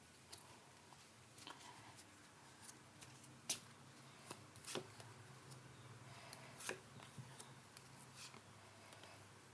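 Faint handling of tarot cards: scattered soft clicks and taps as cards are moved and laid down.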